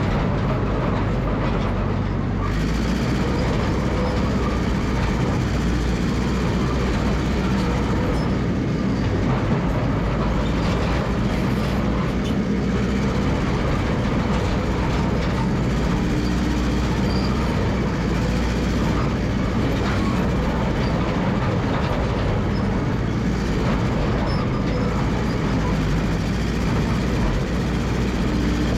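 Massey Ferguson MF 300 crawler dozer running steadily, its engine and steel tracks making a continuous heavy mechanical din.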